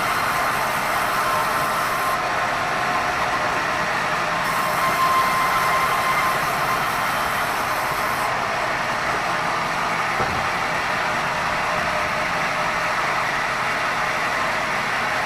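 Sawmill band saw running steadily, sawing red meranti timber: a loud, even mechanical noise.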